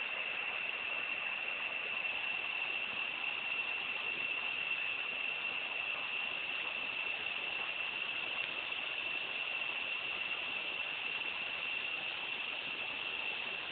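Waterfall, a steady rush of falling water, with a continuous high-pitched drone over it.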